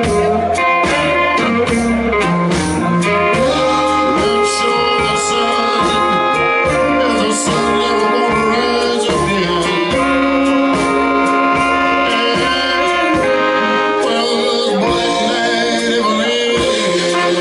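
Live blues band playing an instrumental passage between sung verses, with a steady drum beat under sustained horn-section chords.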